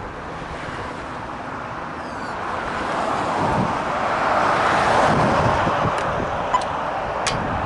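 Rushing wind and road noise on a cyclist's head-mounted camera while riding, swelling to a peak about two-thirds of the way through, like traffic passing. A few brief high ticks come near the end.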